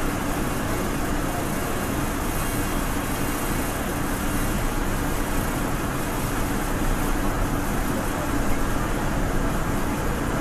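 Steady rumble and rush of a moving passenger train heard from inside the car, wheels running on rail, while a double-stack container freight train passes close alongside on the next track.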